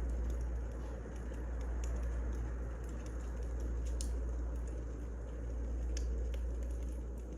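Wood fire crackling: a steady low rumble with scattered sharp pops and snaps, two of them standing out about four and six seconds in.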